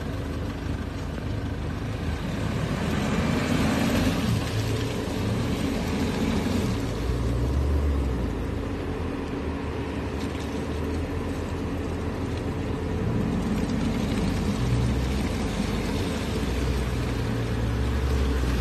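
SUV engine running at low speed while the vehicle creeps over a muddy dirt track: a steady low rumble.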